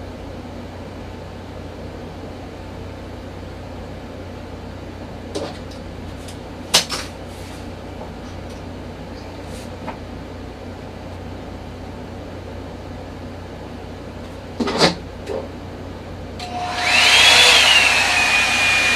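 Revlon One-Step hair dryer brush running steadily with a low hum, with a few sharp clicks of handling. Near the end a much louder rush comes in, carrying a whine that rises and then settles to a steady pitch.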